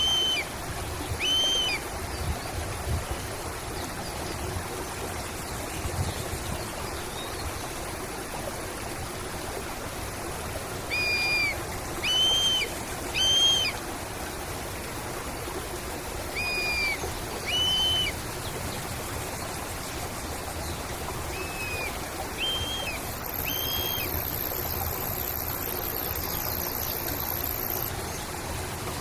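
A bird repeating short, clear call notes in groups of two or three, over the steady rush of flowing stream water.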